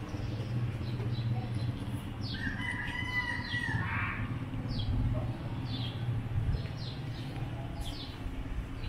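Small birds chirping in a string of short, falling high notes over a steady low hum, with one longer held call about two seconds in.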